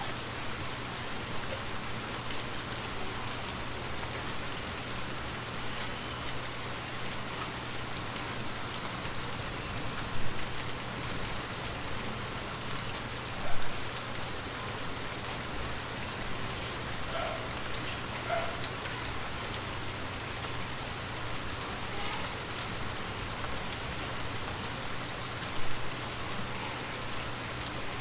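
Steady rain falling on a surface, an even hiss with scattered drops. Three brief louder taps stand out: about ten seconds in, about thirteen and a half seconds in, and near the end.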